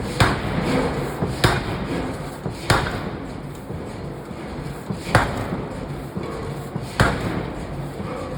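Heavy hammer blows in a forge shop, five strikes at uneven intervals, each with a short ringing tail, over a steady industrial din.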